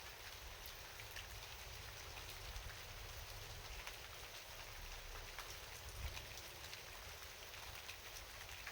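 Steady rain falling: an even hiss with many scattered ticks of single drops, over a low rumble.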